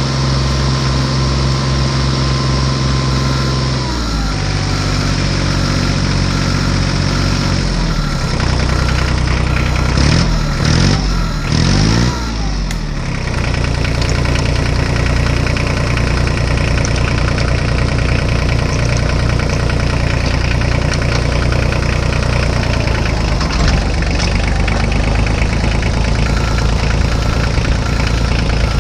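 Tractor engine idling steadily, revving up and down a few times about ten to thirteen seconds in, then settling back to a steady idle.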